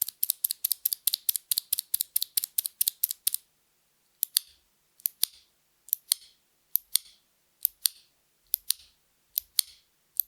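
Akko Creamy Cyan clicky mechanical keyboard switches clicking sharply as they are pressed: about twenty fast clicks in a row for the first three and a half seconds, then slower single presses about once a second, each giving a click going down and a second click coming back up.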